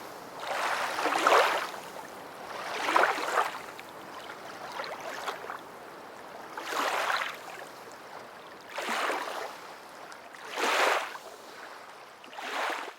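Small waves lapping, washing in one surge about every two seconds.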